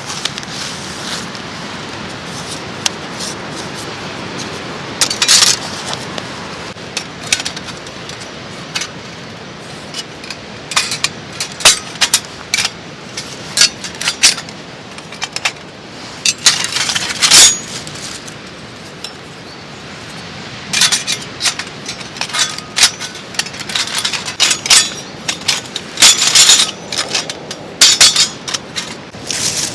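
Metal camping gear being handled: irregular clinks, clatters and scrapes of metal pieces knocking together, over a steady background hiss.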